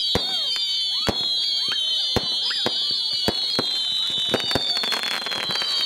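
Fireworks display: several shrill whistles hold together and slowly fall in pitch, over sharp bangs about once a second. A dense burst of crackling comes a little past four seconds in.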